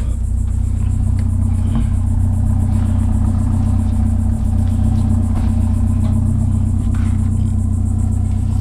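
Truck engine idling steadily: a low, even hum that does not rise or fall, with a few faint clicks over it.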